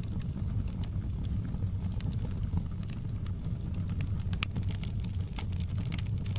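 Crackling fire: a steady low rumble of burning with scattered sharp pops and crackles.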